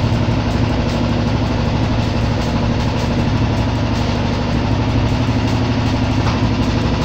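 Royal Enfield Bullet 500's single-cylinder EFI engine running steadily at a raised idle. Its idle RPM screw on the throttle body has been turned anti-clockwise to increase the RPM.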